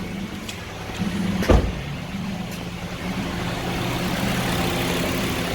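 A 2011 Honda CR-V's engine idling steadily, with a sharp knock about one and a half seconds in and a hiss that builds from about halfway through.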